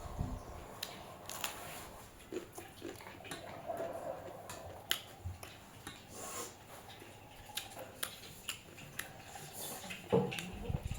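Close-miked chewing and eating sounds: irregular wet mouth clicks and smacks of someone eating with their mouth near the microphone.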